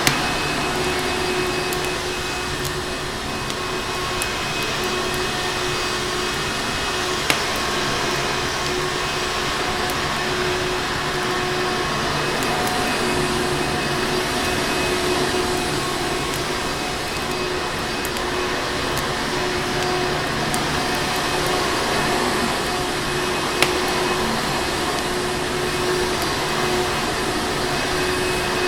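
Vacuum cleaner motor running steadily with a constant whooshing hum. Two sharp pops from a crackling fire come through, about a quarter of the way in and again near the end.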